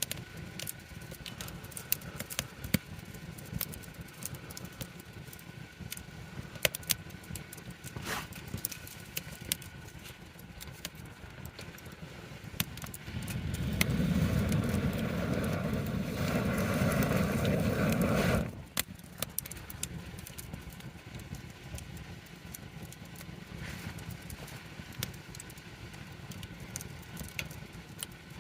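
Wood campfire crackling, with frequent sharp pops and snaps over a low steady hiss. About halfway through, a louder low rushing noise swells up for around five seconds, then stops abruptly.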